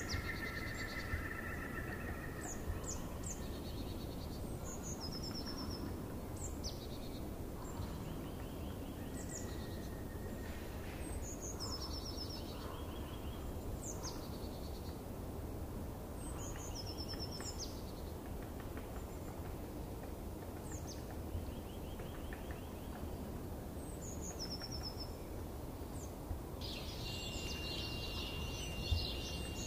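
Small birds calling repeatedly, short high chirps and quick trills every couple of seconds, over a steady low background noise. Near the end the birdsong gives way to a dense high hiss with a steady high tone.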